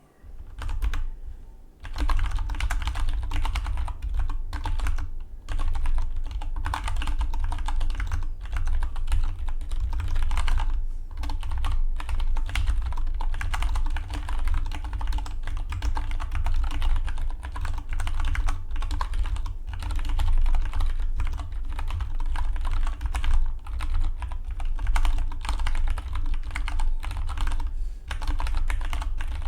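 Fast typing on a Dygma Defy split mechanical keyboard: a few keystrokes, then a dense, rapid run of key clicks from about two seconds in.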